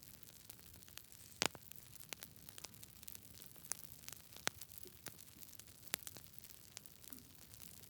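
Wood fire burning in a fireplace, crackling: irregular sharp pops and snaps over a soft steady hiss, with the loudest pop about a second and a half in.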